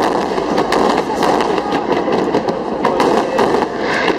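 Fireworks display: aerial shells and ground fountains going off in rapid succession, a dense run of bangs and crackling with no pause.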